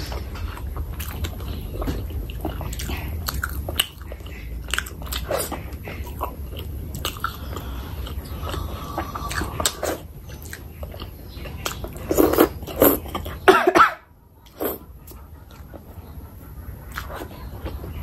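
Close-miked mouth sounds of a person biting and chewing curry eaten by hand, with a run of short wet clicks. The loudest bout of chewing comes about twelve seconds in, followed by a brief pause.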